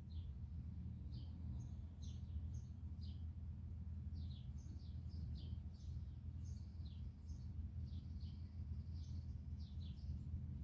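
Small bird chirping: short, high, falling chirps repeated irregularly, about two a second, over a steady low hum.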